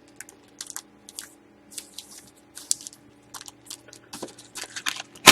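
Crinkling and rustling of Panini Select hockey card packs and their cardboard mini box being handled and emptied: many short, irregular crackles over a faint steady hum.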